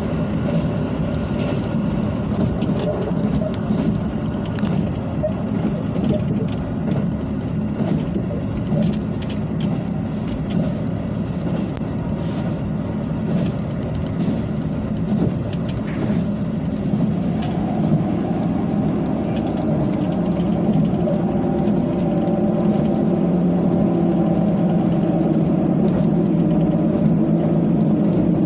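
Diesel railcar running along the track, heard from inside: a steady low rumble with scattered clicks and rattles, and an engine drone that becomes steadier and a little louder about two-thirds of the way through.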